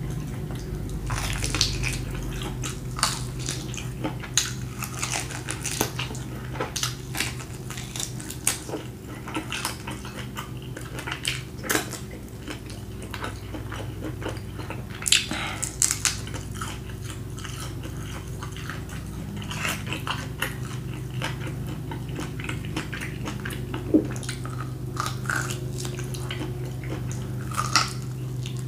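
Close-miked chewing and biting of grilled BBQ beef ribs: irregular wet mouth clicks and smacks, over a steady low hum.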